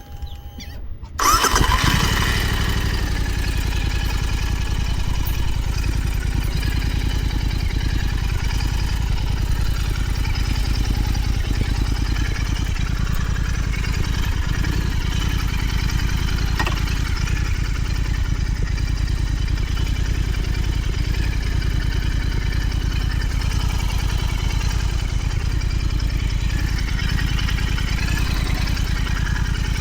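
Royal Enfield Continental GT 650's 648 cc parallel-twin engine starting about a second in, then idling steadily.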